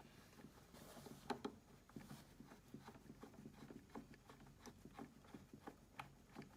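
Faint, irregular small clicks and ticks of a screwdriver turning a screw into the plastic housing of a halogen convection oven lid, with the loudest tick about a second in.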